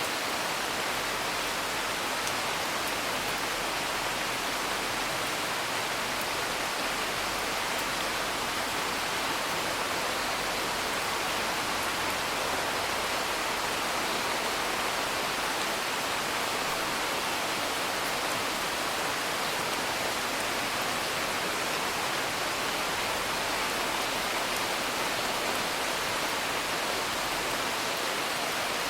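Steady rain falling, heard as an even hiss, with faint scattered crackles of a wood fire.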